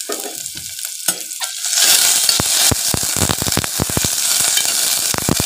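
Cumin, dried red chilli, garlic and bay leaf sizzling in hot oil in a steel pressure cooker, with a metal slotted spoon stirring and clinking against the pot. The sizzle grows louder about two seconds in, and the spoon's clicks come thick and fast from then on.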